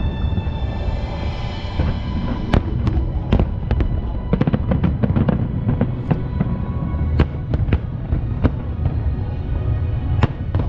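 Aerial fireworks bursting over a continuous low rumble. From about two and a half seconds in come many sharp, irregular cracks and bangs, some in quick clusters, with music underneath.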